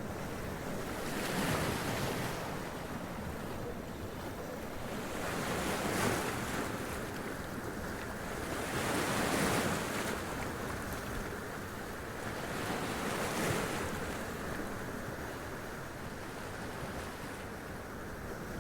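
Sea waves splashing against and washing up over rocks, each wave swelling into a hissing rush and then easing back, about five times, over a steady low surf rumble.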